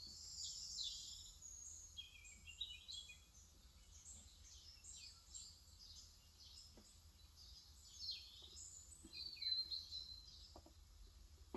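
Small birds chirping and twittering continuously in quick, overlapping high-pitched calls, with a few faint taps in the second half.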